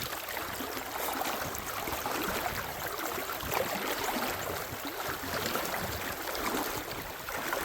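Creek water running steadily: an even, continuous rushing with no distinct splashes.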